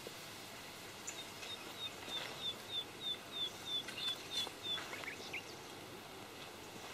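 A small bird calling in the reeds: a run of about a dozen short, high, slightly falling notes, about three a second, then a few fainter chirps, over a soft steady background hiss.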